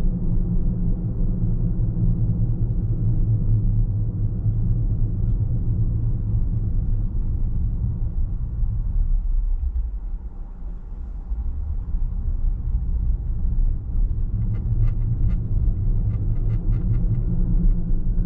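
Car driving along a road, with a steady low rumble of tyres and engine that eases for a few seconds about halfway through. A run of light ticks comes near the end.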